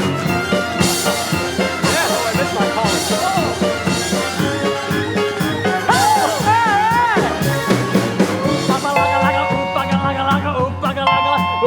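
Live band playing an up-tempo swing instrumental with a steady drum beat. A sliding melodic figure comes about six seconds in, and sustained held chords begin about nine seconds in.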